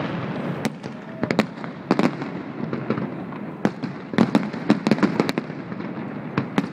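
Fireworks display: an irregular, rapid series of sharp bangs and cracks, most densely packed about four to five seconds in.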